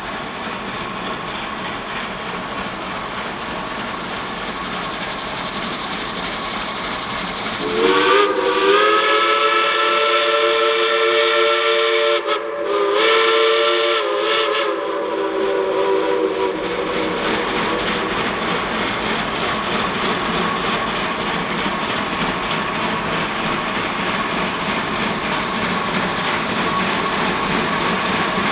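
Geared steam locomotive running, with its multi-chime steam whistle blowing for about nine seconds starting about a quarter of the way in, cut by two brief gaps. After the whistle, the steady running sound of the train carries on.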